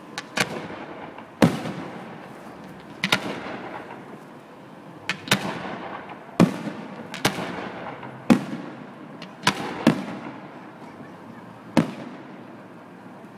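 Fireworks display: about a dozen firework shells bursting with sharp bangs at irregular intervals, each followed by a fading rumbling echo.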